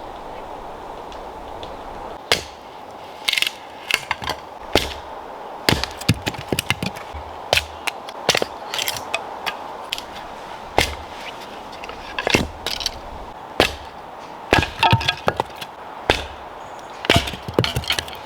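Dry wood breaking: a long run of sharp, irregular cracks and snaps, some in quick clusters, over a steady background hiss.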